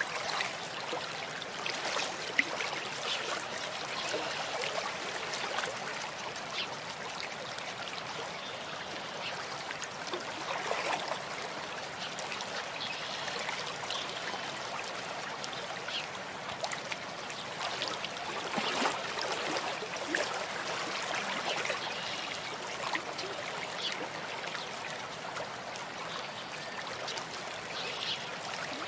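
A small stream of water trickling and running steadily, with small drips and splashes now and then.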